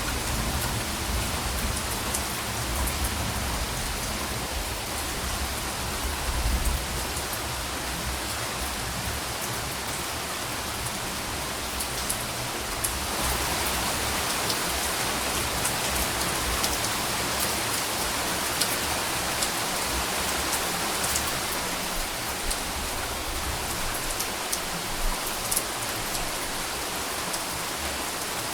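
Steady rain pattering on a surface, with fine drop ticks throughout. Soft, distant thunder rumbles low under the rain during the first several seconds.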